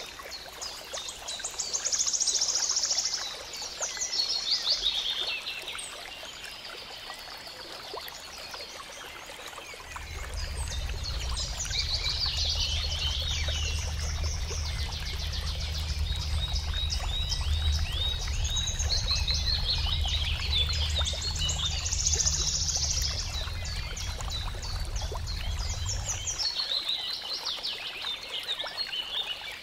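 Several songbirds singing fast, high-pitched trills and chirps in overlapping bouts. A steady low rumble comes in about a third of the way through and stops shortly before the end.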